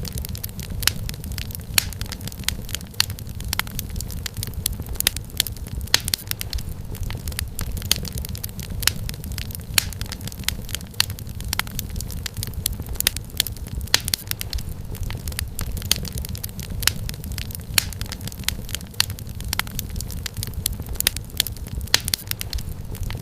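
Wood fire crackling and popping in a fireplace: many sharp snaps and pops, several a second, with louder pops every second or so, over a steady low rumble of the flames.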